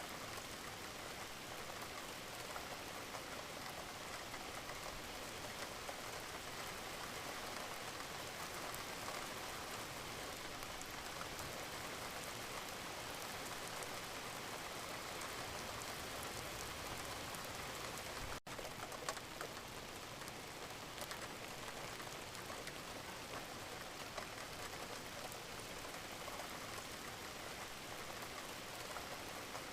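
Wood fire crackling in a fireplace: a steady hiss with many small pops. About two-thirds of the way through, the sound drops out for an instant, then a louder pop follows.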